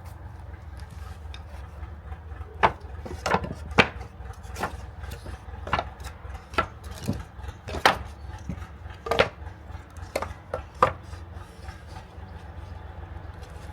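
Wooden knocks and clatters of wood panels being handled or tapped into place: about a dozen sharp, irregular strikes over some eight seconds, with a steady low hum underneath.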